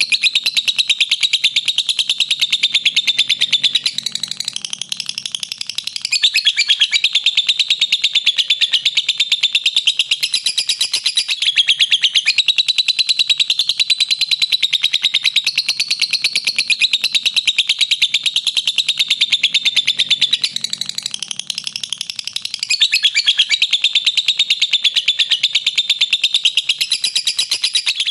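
Lovebird's long 'ngekek' song: a continuous, very rapid chatter of high-pitched chirping notes without a pause, easing slightly twice before picking back up.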